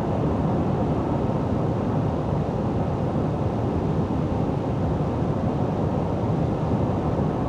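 Steady road and engine noise inside a vehicle cruising on the highway, a constant low rumble without changes.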